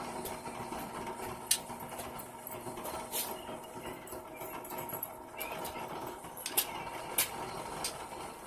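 A small motor running with a steady hum, with sharp metallic clicks and taps now and then, the loudest about a second and a half in and twice near seven seconds.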